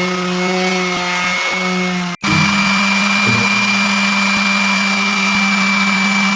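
Small power tool's electric motor running steadily with a constant whine. It cuts out for an instant about two seconds in, then runs on.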